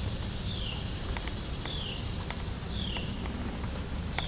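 A bird repeating a short, falling whistled note about once a second over steady low outdoor background noise, with a few faint ticks.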